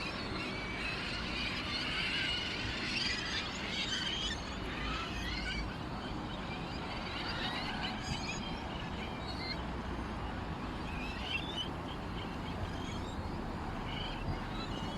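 Small birds chirping and twittering, many overlapping calls in the first few seconds and scattered ones after, over a steady background hiss.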